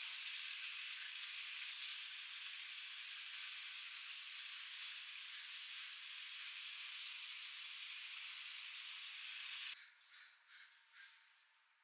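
A steady high hiss with small birds giving short clusters of quick, high chirps, once about 2 s in and again about 7 s in. The hiss cuts off suddenly near the end, leaving faint chirps and light ticks.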